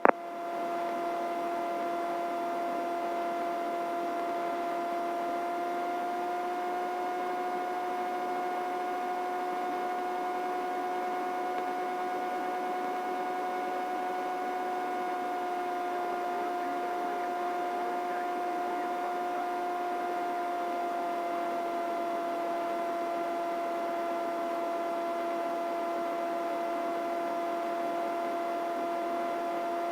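Steady in-flight drone of a helicopter heard through the intercom audio feed, with a pitched whine that rises slightly and settles back partway through.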